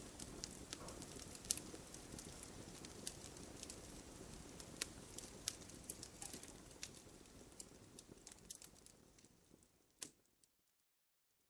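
Bonfire of burning wood crackling, with irregular sharp pops and snaps over a soft hiss. The sound fades out near the end, with one last loud pop, then about a second of silence.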